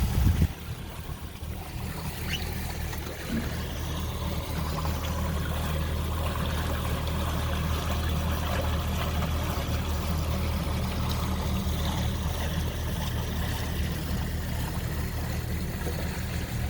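Boat under way with its 90 hp Suzuki outboard running at a steady cruising speed: an even engine drone with water rushing past the hull.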